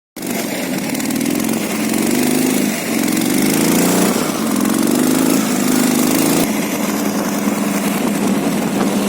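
Motorcycle engine running and being revved, its pitch rising and falling several times, with an abrupt change about six and a half seconds in where the sound is cut.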